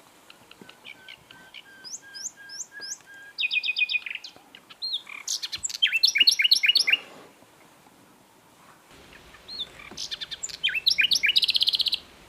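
Common nightingale singing in separate phrases of repeated whistled notes, fast rattling trills and quick down-slurred notes, with a pause of about two seconds in the middle.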